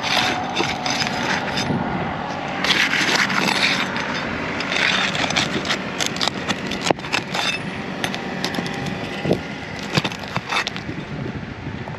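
Asphalt roof shingles being scraped and pried loose where they are still sealed to the row beneath. Bouts of scraping with several sharp knocks and cracks, the loudest about seven seconds in.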